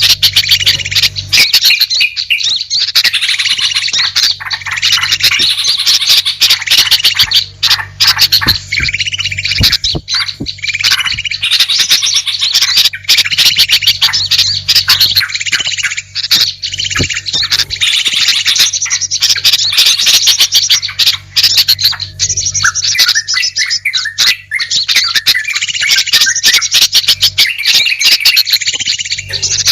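A dense, continuous chatter of many small birds, chirping and squawking together with rapid clicking calls. It is a bird-lure (pikat) recording that layers several species' calls to draw wild birds in.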